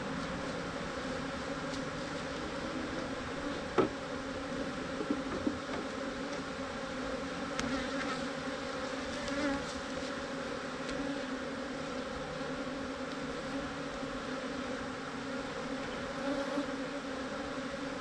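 A mass of honeybees from a defensive colony buzzing in a steady, dense hum around the opened hive. A single sharp knock a little under four seconds in, with a few lighter clicks later.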